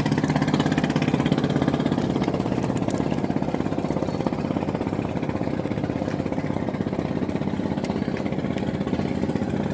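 A fishing boat's engine running steadily, with a fast, even pulsing beat.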